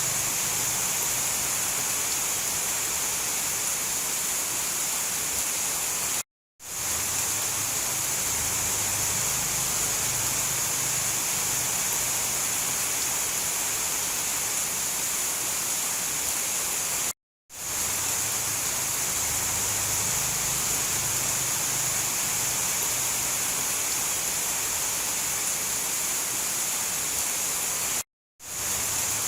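Heavy rain, a steady, even hiss strongest in the high register, with no thunder. It cuts out to silence three times, about eleven seconds apart, for a fraction of a second each time, then fades back in: the seams of a looped recording.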